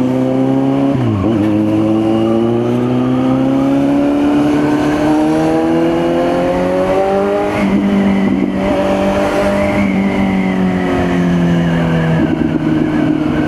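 Kawasaki Z900's inline-four engine under way, its pitch rising slowly as it pulls through a gear. About seven and a half seconds in it steps down in pitch at a gear change, then holds steady and eases off slightly.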